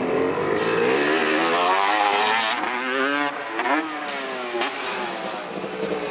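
Freestyle motocross dirt bike engine revving hard, its pitch climbing over the first two seconds or so, then dropping and rising again about three and a half seconds in.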